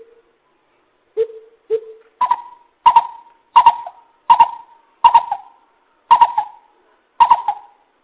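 Coucal (bìm bịp) calling, as a recorded lure call: a series of deep hoots, two lower notes about a second in, then about seven higher notes spaced roughly two-thirds of a second apart, each trailing off briefly.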